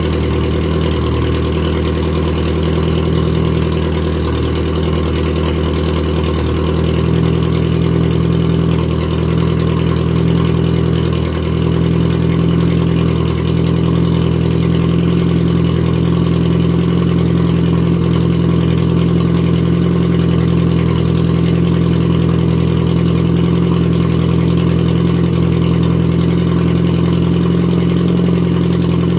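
Datsun 1000's four-cylinder engine idling steadily through a straight-piped exhaust during its cold-start warm-up, its note evening out about seven seconds in.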